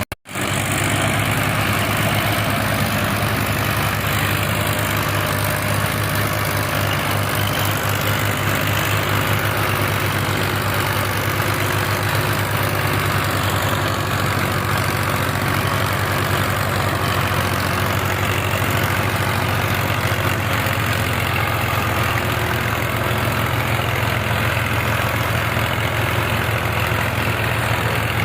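Belarus 510 tractor's diesel engine running steadily at a constant speed, with no revving. The sound breaks off for a split second at the very start.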